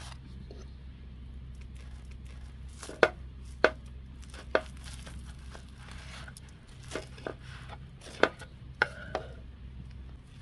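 Knife chopping on a cutting board: about eight sharp knocks at uneven intervals, the loudest a few seconds in, over a steady low rumble.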